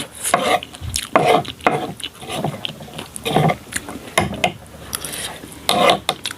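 Chopsticks stirring and scraping through a bowl of instant noodles, in irregular short bursts.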